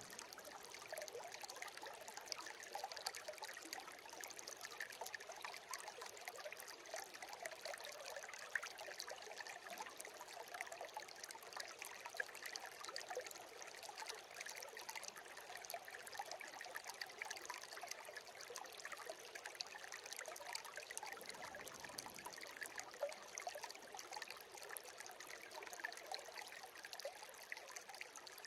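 Small shallow stream (a brook) trickling steadily over stones, with fine, even splashing and no other sound.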